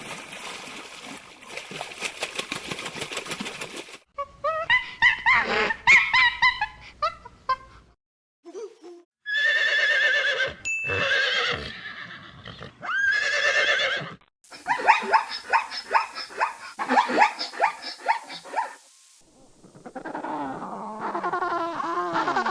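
A series of short farm-animal clips cut together every few seconds, mostly loud pitched calls, with horses neighing and whinnying among them.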